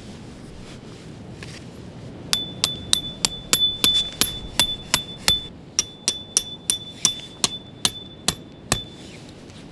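A hammer striking metal again and again, about three blows a second with a short break in the middle, each blow leaving a high metallic ring.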